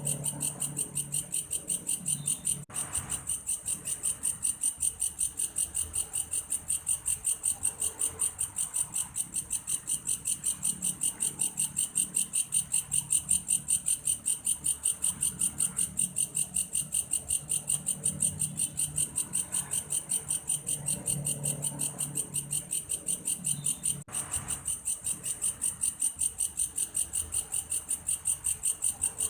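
Belalang kayu grasshopper stridulating: a high, evenly pulsed chirping at about four to five pulses a second, broken briefly twice.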